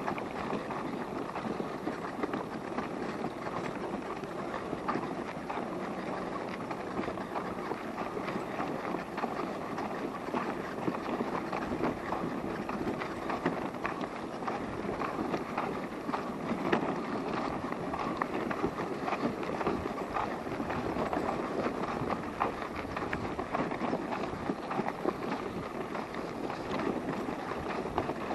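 Wheels rolling over a rough path: a steady crackling rumble scattered with small clicks and ticks.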